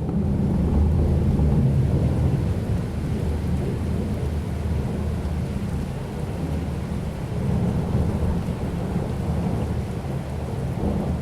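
Rolling thunder: a long, deep rumble that swells at the start, eases off midway and builds again later, over steady rain.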